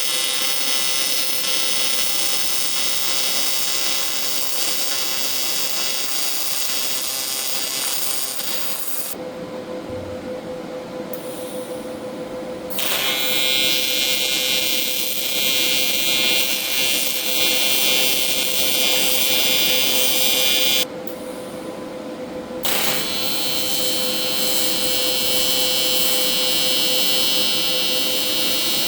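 TIG welding arc from a PrimeWeld TIG 225 welder, a steady high hiss that stops twice, for about four seconds about a third of the way in and for about two seconds about two-thirds through, before starting again each time.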